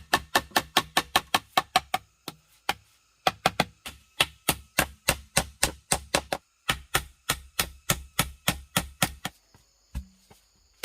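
Rapid, even knocks, like a tool striking wood, about five a second, in bouts broken by short pauses.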